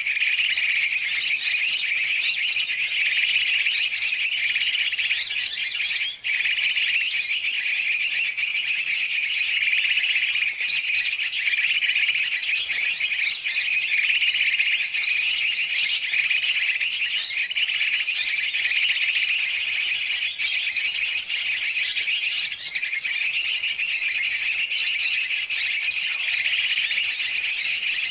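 Dense, unbroken chatter of many birds calling at once, quick chirps and trills overlapping without a pause: a bird-lure recording of a noisy mixed flock, made to draw trucukan (yellow-vented bulbuls) and other birds in.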